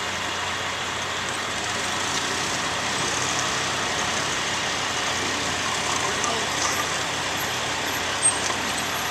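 Heavy emergency vehicle engine running steadily at idle, with indistinct voices in the background.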